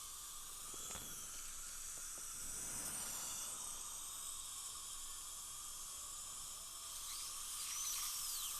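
High-speed dental drill running with a steady hiss, cutting through an implant crown to widen the access hole to a loose abutment screw; near the end its high whine bends up and down as the bur loads and frees.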